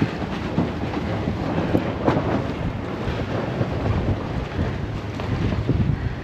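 Strong gusty wind buffeting the microphone aboard a sailboat under sail, an uneven low rumble, with a brief louder burst about two seconds in.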